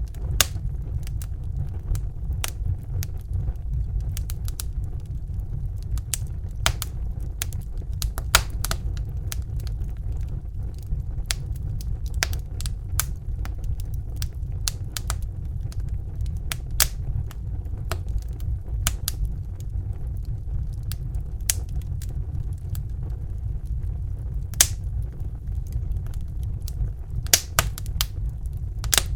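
Crackling fire: irregular sharp snaps and pops, a few much louder than the rest, over a steady low rumble.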